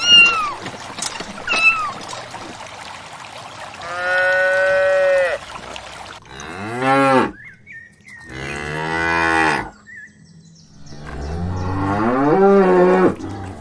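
Cattle mooing: four long moos one after another, the first held at an even pitch and the later ones rising and falling. Two short, high, falling calls come just before, near the start.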